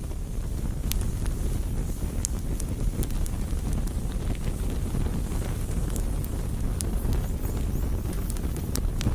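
Wood campfire burning: scattered sharp crackles and pops over a steady low rumble.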